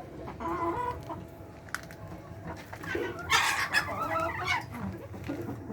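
Hens clucking, with one loud drawn-out call lasting about a second and a half from about three seconds in.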